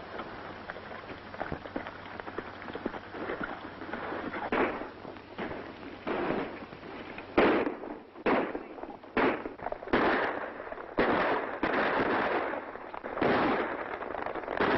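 Gunfire on an old film soundtrack: a run of sharp shots, one every half second to a second, starting about halfway through, over a rising rattling background.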